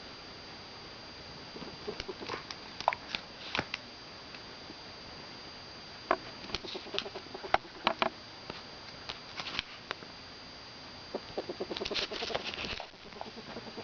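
Ferret making short clucking and chirping noises: scattered sharp clicks through most of it, then a denser run of rapid clucks about eleven to thirteen seconds in. A faint steady high whine sits underneath.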